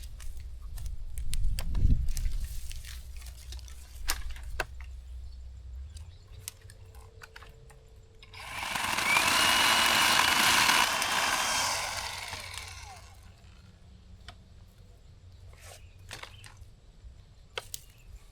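Zhipu 48V cordless chainsaw running for about four seconds in the middle, a steady high electric-motor whine over a dense hiss. Scattered cracks and clicks come before and after it.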